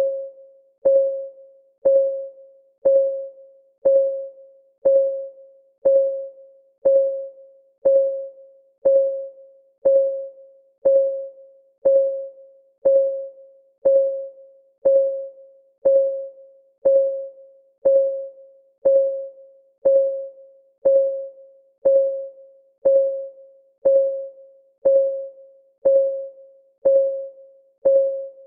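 Clock ticking sound of a countdown timer, one tick every second. Each tick is a short click with a clear ringing note that fades away before the next.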